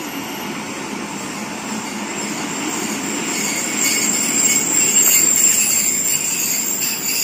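Passenger train coaches rolling past on the track: a steady wheel rumble, with high metallic squealing and ringing from the wheels that grows louder about halfway through.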